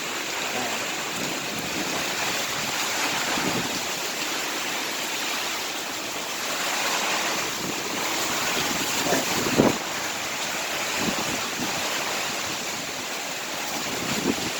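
Steady rush of tropical-storm rain and runoff water running down the street, with a single short knock about nine and a half seconds in.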